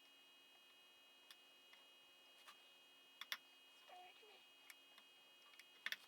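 Near silence with a steady faint hum, broken by a few faint, sharp clicks and light taps. Two come close together a little past three seconds in and a quick cluster comes near the end. A brief faint squeak sounds about four seconds in.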